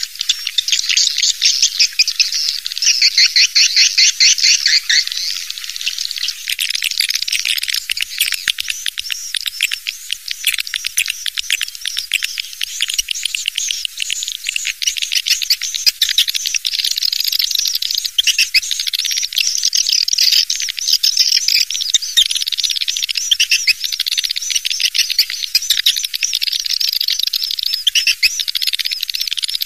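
Recorded swiftlet chorus: a dense, continuous twittering of rapid high-pitched chirps and trills. It is the kind of swiftlet call track played to draw swiftlets into a nesting house.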